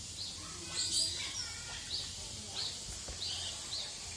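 Birds calling: a short high chirp repeats about every half second, with a louder, harsher call about a second in.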